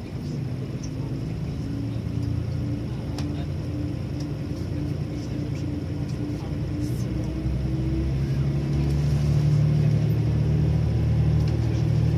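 Electric train pulling away from a standstill: a low rumble with a motor hum slowly rising in pitch, growing louder over the last few seconds.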